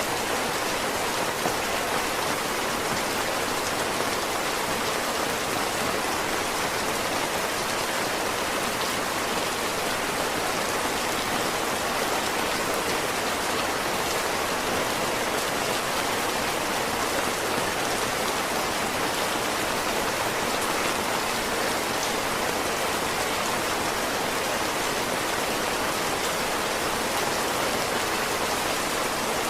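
Heavy rain falling steadily, a dense even hiss of drops with no change in strength.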